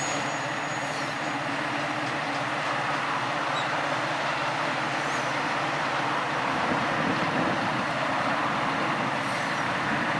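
Train running, a steady rush of rail noise with no break.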